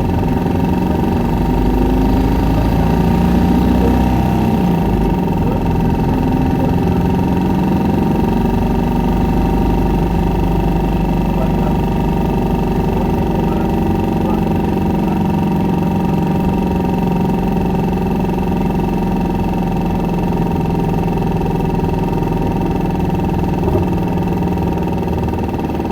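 Isuzu Erga 2KG-LV290N2 city bus running along: its diesel engine gives a steady drone, with a constant high whine above it.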